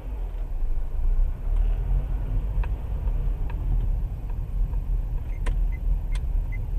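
Car driving: steady low engine and road rumble, with a few faint ticks.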